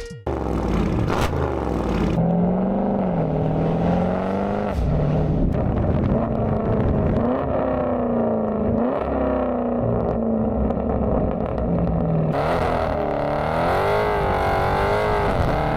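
Dodge Charger Scat Pack's 392 HEMI V8 exhaust, the revs swinging up and down again and again. The sound turns brighter and sharper about twelve seconds in.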